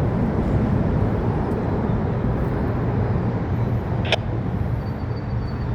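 Steady low vehicle rumble, with a single sharp click a little after four seconds in.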